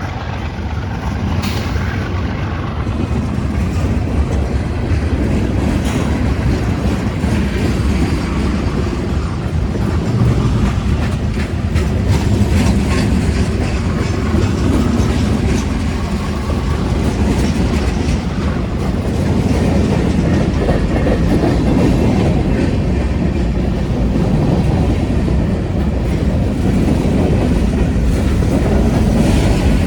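A freight train's cars rolling past at a steady speed: a continuous rumble of wheels on rail with a running clickety-clack over the rail joints.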